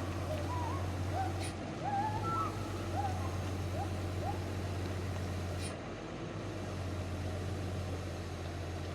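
Low steady drone of a truck engine, with a bird giving short whistled calls over it during roughly the first half.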